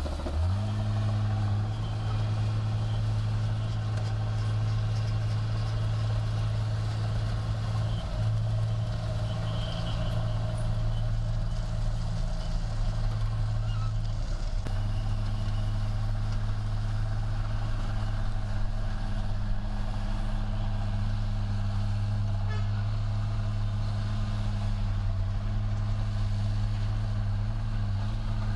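Heavy diesel engine of an earthmoving machine running steadily at a constant pitch, with a brief dip just at the start and a slight change in tone about halfway through.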